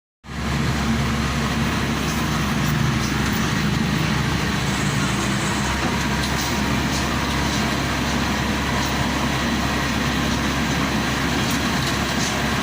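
Combine harvester's engine running steadily under load, with faint clicks here and there.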